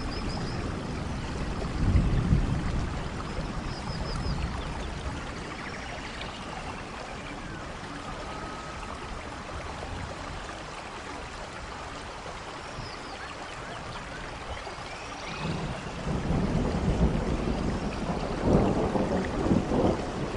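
Steady rain with rolling thunder: a low rumble about two seconds in, then a longer, louder roll building from about three-quarters of the way through. A few faint, short high chirps sound over the rain.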